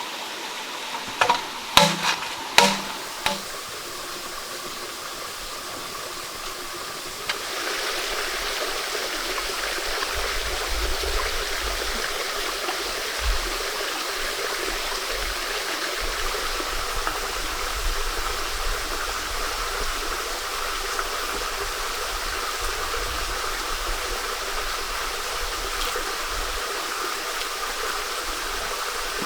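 Steady rushing of a flowing stream, stepping up louder about seven seconds in. A quick run of five or six sharp knocks comes between one and three seconds in.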